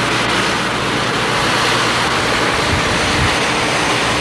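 Passenger train coaches rolling past at close range: a steady rushing noise of steel wheels on the rails.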